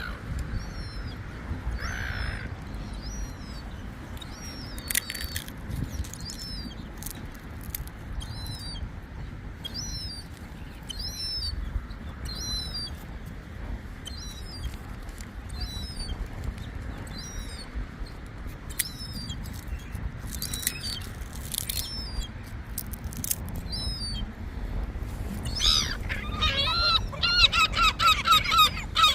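Seagulls calling: a short high call repeats about once a second for much of the time, then near the end comes a rapid run of louder, harsh calls. Low wind rumble on the microphone underneath.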